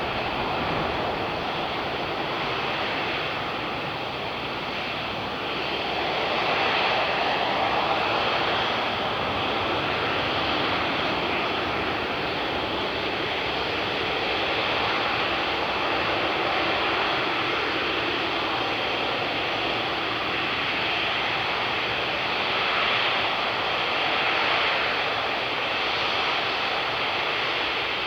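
Airbus A380 jet engines running with a steady rushing noise, swelling slightly twice.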